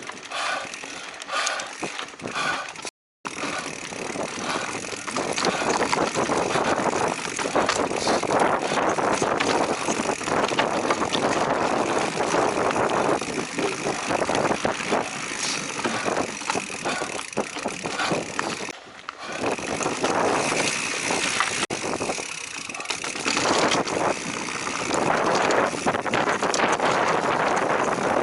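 Giant Trance Advanced Pro full-suspension mountain bike ridden over a rough dirt trail: tyre and drivetrain noise with rattling over the terrain. A soft regular crunching opens it, the sound cuts out briefly about three seconds in, and then comes louder continuous riding noise.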